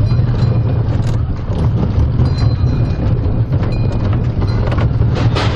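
Mine-train ride running along its track: a steady low rumble with scattered clicks and rattles.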